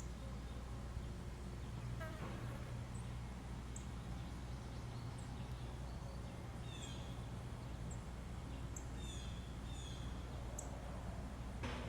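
Small birds at a feeder chirping, with many short, high notes and a few quick falling calls scattered through, over a steady low hum. A couple of brief clicks come about two seconds in and near the end.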